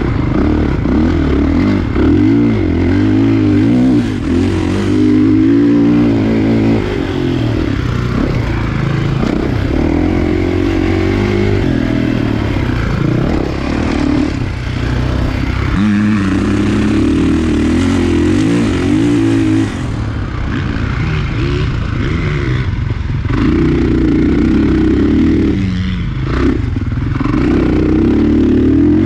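Kawasaki KX450 four-stroke single-cylinder motocross bike being ridden hard, its revs climbing and dropping over and over as the throttle is opened and chopped.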